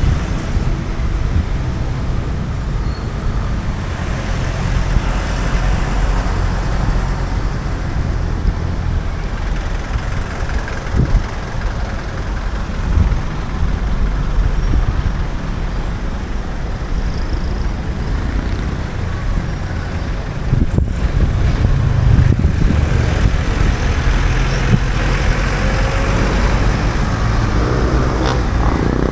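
Street traffic: vehicle engines running and passing, a steady low rumble under road noise. Near the end a pitched engine note comes in.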